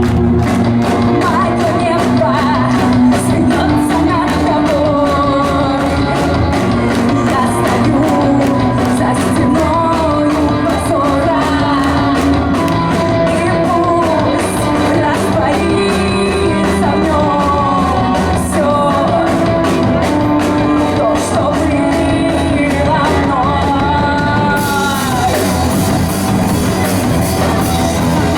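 Rock band playing live with a singer over a steady drum beat. About 25 s in the sound turns brighter and fuller as the band builds up.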